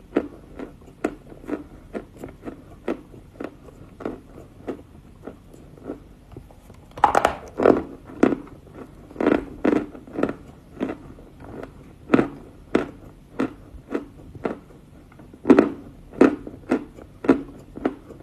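Close-miked chewing of lumps of Volokonovka edible chalk: crisp crunches about every half second, with louder fresh bites about seven and fifteen seconds in.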